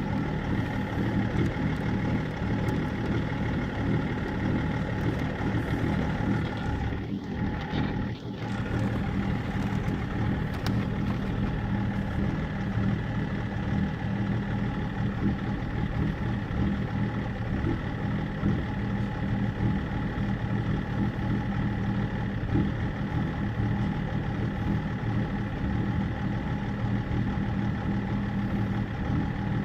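BMW E39 530d's M57 straight-six diesel idling steadily, with the rough idle that the owner is chasing through INPA diagnostic values. The sound dips briefly twice about seven seconds in.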